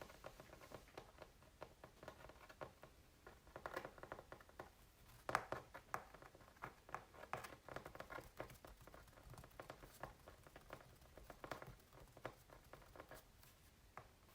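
Faint ASMR tapping and tracing on acrylic paintings on canvas: quick, irregular light taps mixed with short scratchy strokes, with one louder tap about five seconds in.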